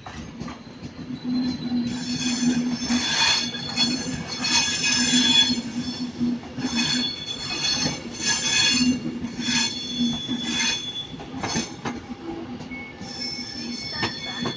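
Class 390 Pendolino electric train coming slowly into the platform, its wheels squealing against the rails in high squeals that come and go every second or so over a steady low hum.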